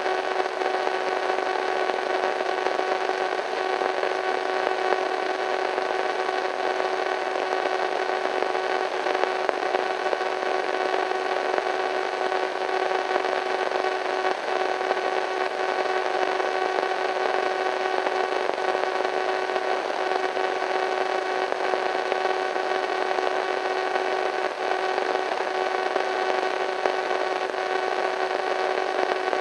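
Radio static: a steady hiss with a steady pitched drone running through it, unchanging throughout.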